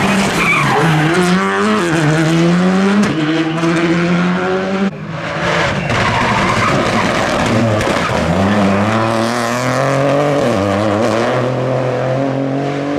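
Rally car engine accelerating hard, its pitch climbing and dropping at each upshift through the gears. About five seconds in the sound breaks off briefly, then another run of climbing revs and upshifts follows.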